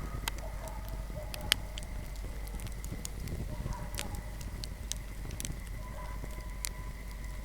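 Wood fire crackling in a fireplace: a steady low rumble of flames with scattered sharp crackles and one loud pop about a second and a half in.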